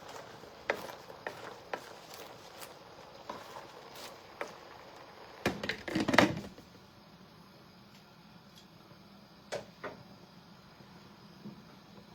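Scattered clicks and knocks of kitchen utensils and cookware, with a louder burst of clatter about six seconds in. After that it goes mostly quiet, with a faint steady hum and two more clicks near the end.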